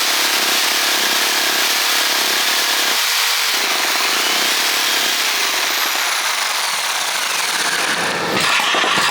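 Kango electric breaker (demolition hammer) hammering steadily, with a jigsaw running at the same time.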